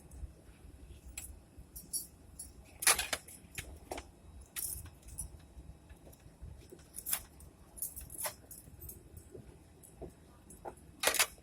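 A bunch of keys jangling, with scattered clicks, as someone tries one key after another in a lock after picking the wrong one.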